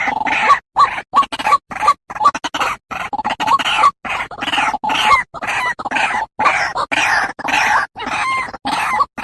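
White-breasted waterhens calling, a noisy run of harsh, croaking calls repeated about twice a second with brief gaps between them, as used in a bird-luring call recording.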